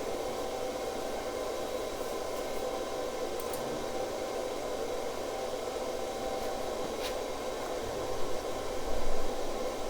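Cooling fan of a cheap flux-core welder running with a steady whir and faint hum; a couple of brief low thumps about eight and nine seconds in.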